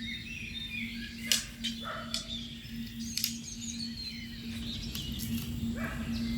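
Birds chirping and trilling, with two sharp clicks and a steady low hum underneath.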